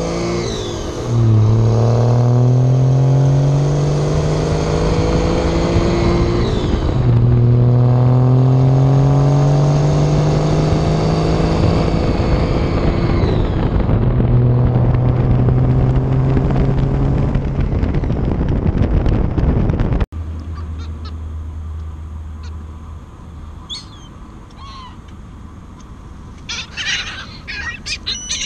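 Dodge Ram 2500 Cummins diesel pickup accelerating hard, its engine note rising through each gear and dropping back at the shifts, three times over. It cuts off suddenly about two-thirds in, giving way to a quieter outdoor scene where gulls call in short cries, more of them near the end.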